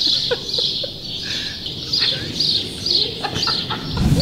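Birds chirping over and over in short, high calls, with a few lower gliding calls mixed in. Near the end comes a low rumble close to the microphone.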